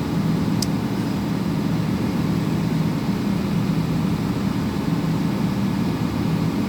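Scania P410 truck's diesel engine idling steadily while it warms up, ahead of a forced particulate-filter regeneration.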